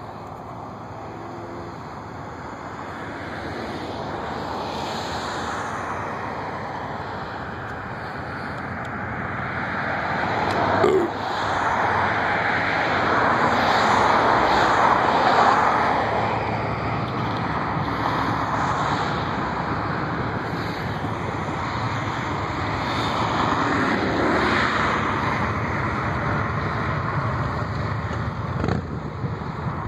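Jet airliner engines passing at an airport: a wide rushing noise that swells, is loudest midway, then eases to a steadier rumble. A short knock is heard a little before the loudest part.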